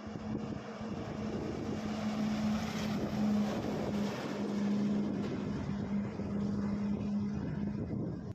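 Tata BS6 16-wheel truck's diesel engine running as the truck drives, a steady hum under a loud wash of road and wind noise.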